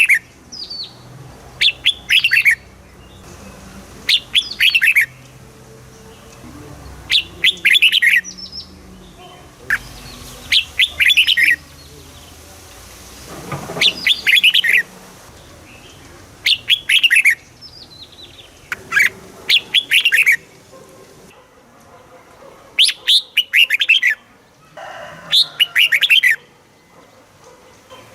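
Red-whiskered bulbul song: short, bright phrases of a few quick warbling notes, repeated every two to three seconds.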